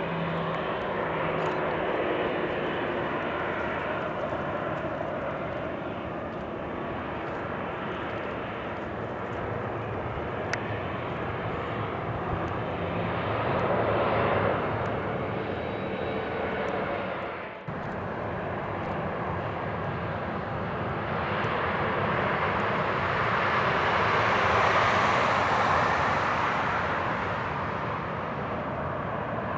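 Jet airliner engines passing close by, a steady rush that swells about 14 seconds in; after a sudden break, a second, louder swell peaks about 25 seconds in and fades.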